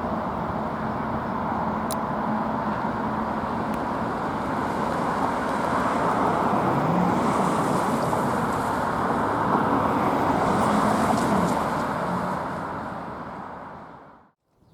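A train passing, with a steady rumble of wheels and engine that builds to a peak about ten seconds in, then fades and cuts off suddenly near the end.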